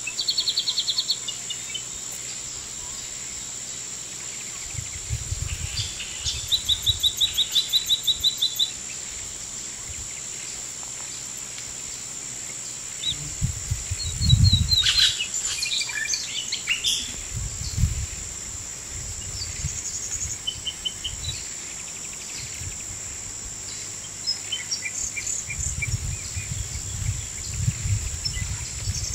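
Outdoor countryside ambience: a steady high insect drone throughout, with birds calling in fast trills at the start and again a few seconds later, then scattered chirps. Occasional low rumbles come and go underneath.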